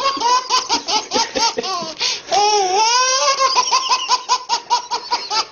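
A baby laughing: a fast run of short, high-pitched laughs, broken about halfway through by one longer, wavering squeal before the quick laughing picks up again.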